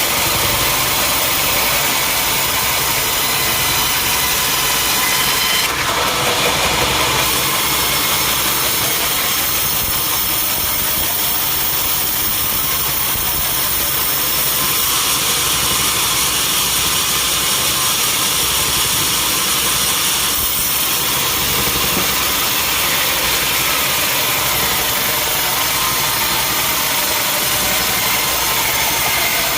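Engine-driven sawmill running steadily, its saw cutting through mahogany wood.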